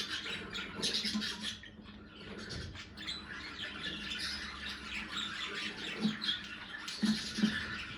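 Budgerigars chattering: a dense run of warbling chirps and squawks, with a brief lull about two seconds in.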